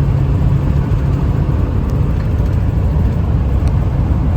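Steady low drone of a 1997 Ford F350's 7.3-litre turbo diesel, tyres and wind while the truck cruises at highway speed, heard from inside the cab.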